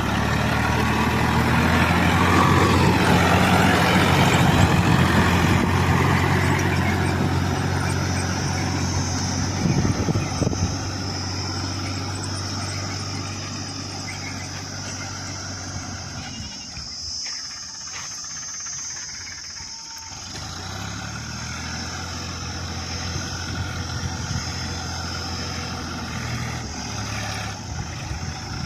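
Sonalika DI-740 III tractor's diesel engine running steadily while puddling with a two-bottom mouldboard plough. It is loudest at first, drops away for a few seconds a little past halfway, then comes back.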